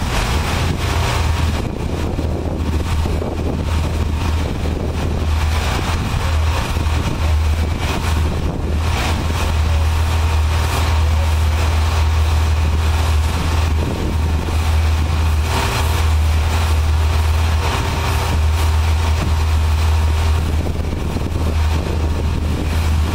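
A heavy engine idling as a steady low drone, with a continuous hiss over it.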